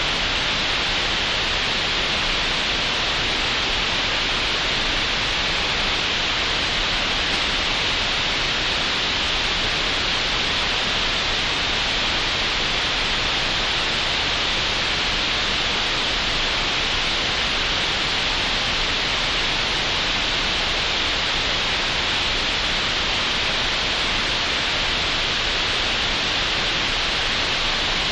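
Steady synthetic green noise generated in Audacity: an even, unchanging hiss, brightest in the upper middle range.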